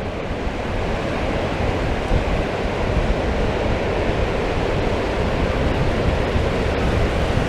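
Strong wind buffeting the microphone, a steady rumbling rush, with the wash of incoming surf behind it.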